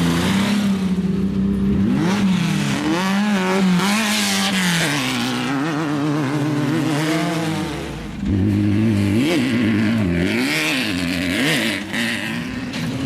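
Off-road desert race vehicle's engine revving up and down again and again as the throttle is worked, its pitch rising and falling. The engine note drops briefly about eight seconds in, then picks up again.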